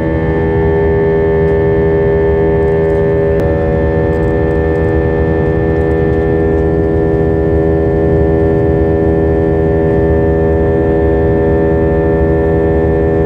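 Airliner engines heard from inside the cabin during take-off and climb: a loud, steady rumble with several held tones over it.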